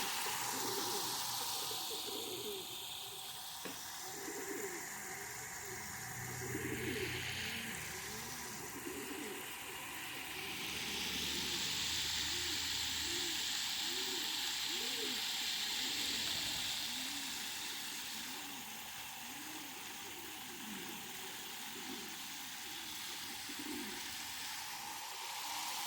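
Domestic pigeons in a loft cooing, many short, rounded coos from several birds overlapping continuously, over a steady background hiss.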